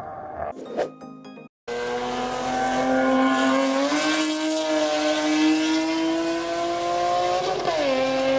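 Japanese performance car engine accelerating hard, its pitch climbing steadily through the revs. Near the end the revs drop sharply at a gear change and start climbing again.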